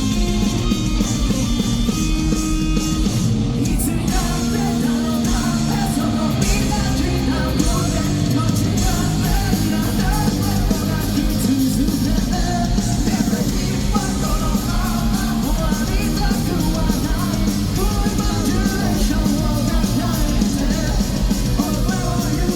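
Live rock band playing at full volume, electric guitars and bass under a male lead singer.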